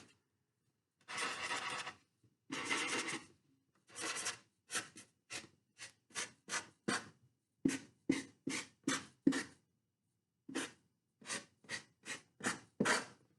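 A marker drawing on paper wheels stuck to a cardboard box. There are two longer scratching strokes, then a run of short, quick strokes.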